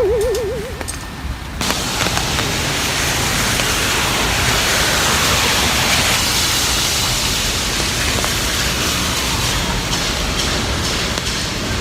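Heavy rain falling, a steady, even hiss that sets in about a second and a half in.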